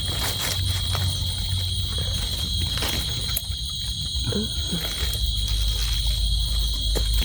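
Night insects, crickets, trilling in a steady high drone, over a low rumble with a few faint clicks.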